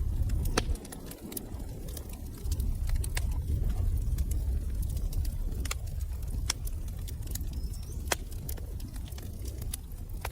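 Wood fire in a fireplace crackling: irregular sharp pops and snaps over a steady low rumble, with a louder pop about half a second in and another about eight seconds in.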